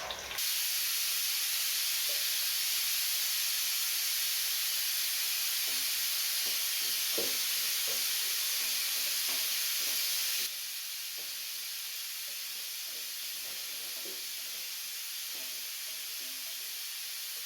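Steady sizzling of sliced onions and green chillies frying in hot oil in a cooking pot, with a few faint ticks. The sizzle drops abruptly to a quieter level about ten seconds in.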